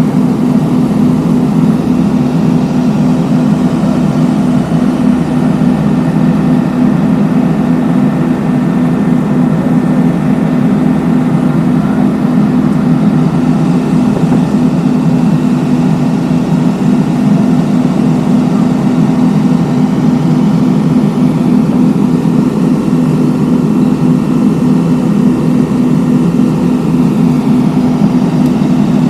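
Heavy road-construction machine's engine running steadily, a loud even drone that holds the same note throughout.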